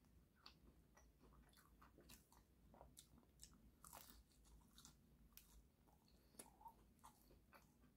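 Faint biting and chewing of a toasted, Parmesan-crusted cheese melt sandwich: small irregular crunches and mouth clicks throughout.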